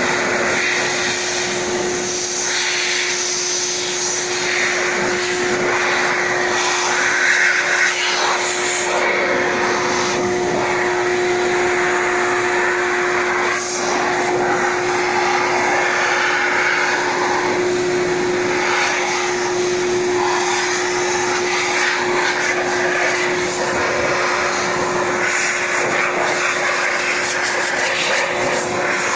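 Electric blower running steadily, blowing water off a freshly steam-washed motorcycle: a constant motor whine under a rush of air.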